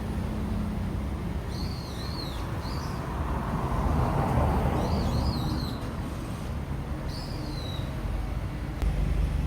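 A bird's short warbling chirps, repeated about four times, over steady road traffic noise, with a vehicle passing near the middle.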